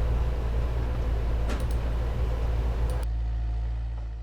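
An engine running steadily at a distance, a low even hum with a couple of faint clicks, fading out near the end.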